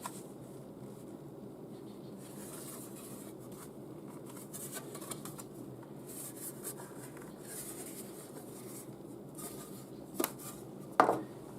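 Quiet handling and rubbing of materials on a work surface over a steady low hiss, then two short sharp knocks near the end.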